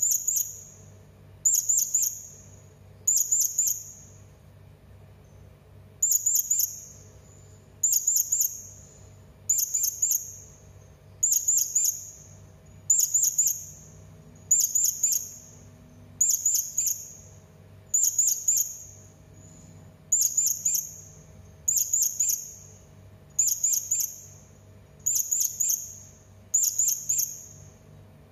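Serindit (hanging parrot) giving shrill, high-pitched calls: short bursts of a few rapid notes, repeated about every one and a half to two seconds with one longer pause early on, over a faint steady low hum.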